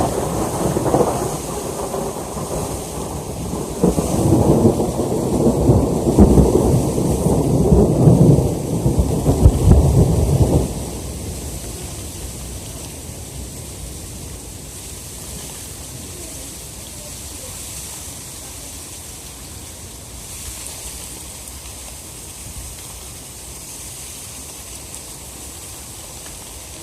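Thunderstorm: loud rumbling over a heavy downpour for about the first ten seconds, then it drops suddenly to a steady hiss of rain.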